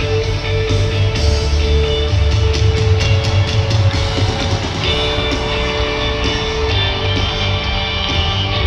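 A live band playing a rock-style worship song, with electric guitar, drum kit and a strong bass line.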